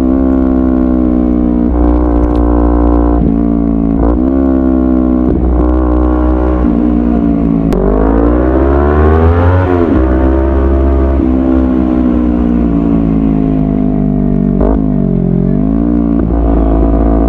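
Hero XPulse 200 4V's single-cylinder engine pulling while riding, its pitch climbing as the bike accelerates and dropping suddenly at gear changes, with a brief dip and pickup near the end.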